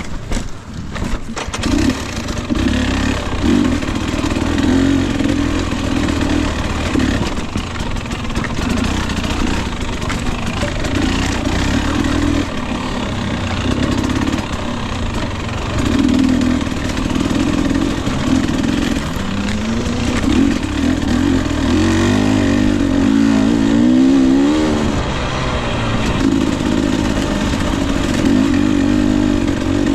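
Husqvarna TE 250i two-stroke dirt bike engine being ridden, its pitch rising and falling as the throttle is opened and closed.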